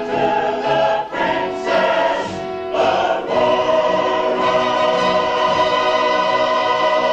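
Choir singing with orchestra in a grand ceremonial choral song. The chords change in the first few seconds, then settle into one long held chord.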